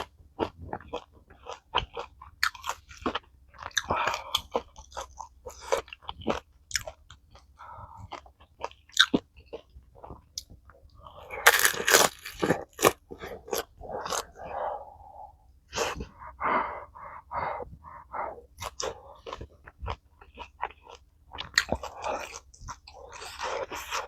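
Close-miked mukbang eating sounds: irregular chewing, crunchy bites and wet mouth noises from a meal of spicy tteokbokki with fried dumplings, with a louder burst of mouth noise about halfway through.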